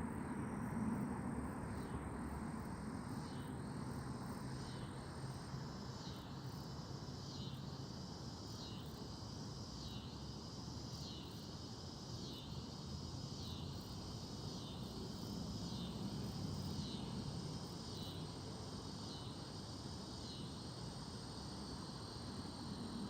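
An insect calling in a steady rhythm, a high rasping chirp about once a second, over a low steady background hiss. A thin, high, steady whine from another insect stops about five seconds in.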